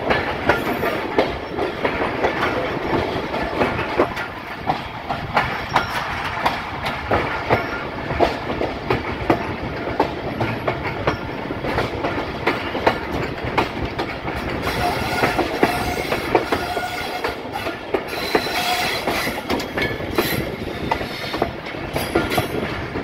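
Bahauddin Zakariya Express passenger train running on the track: a steady rumble with irregular clacks of the wheels over the rail joints, and a stretch of higher-pitched wheel squeal past the middle.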